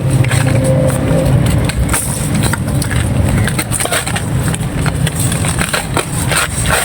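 Dry baked red-sand clay chunks being crumbled and crushed by hand: a dense run of irregular crunchy crackles and snaps. A steady low rumble runs beneath.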